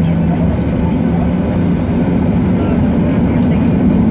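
The Boeing 737-700's CFM56 turbofan engines running at high thrust, heard from inside the cabin as a loud, steady rumble.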